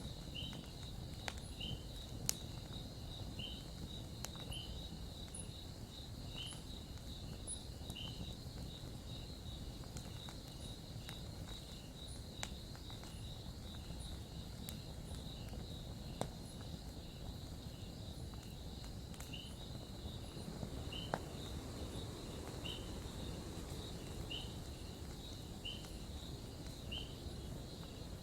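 Campfire burning with a low steady rumble and scattered sharp crackles, a few louder pops among them. Over it, a high chirp repeats about once a second against a steady high hum.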